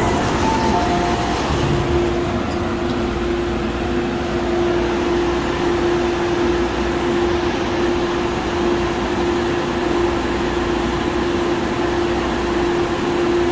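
MTR Tung Chung line CAF electric train heard from on board, running with steady rolling noise and a steady hum. A two-note electronic beep pattern ends about a second in.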